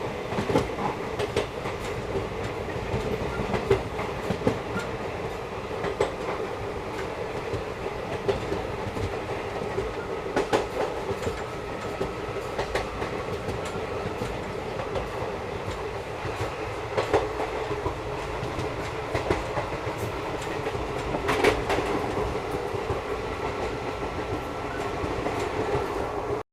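Passenger train running along the track: a steady rumble, with wheels clicking over rail joints at uneven intervals.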